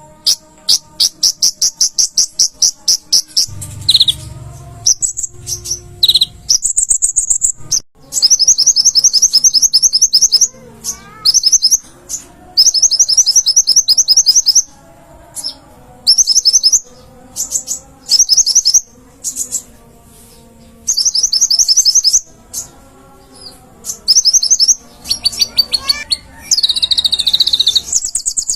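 A konin (kolibri ninja sunbird) singing loudly. Its song is rapid, high trills of fast-repeated notes in bursts of one to two seconds, with short breaks between them.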